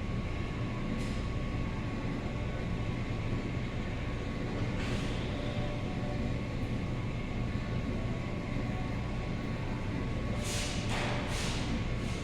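Steady low rumble of a running vehicle, with a brief hissing swish about five seconds in and two more near the end.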